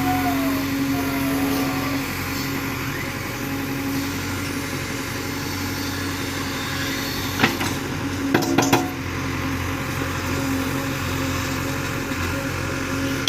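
Excavator's diesel engine running steadily, with a few sharp knocks a little past the middle.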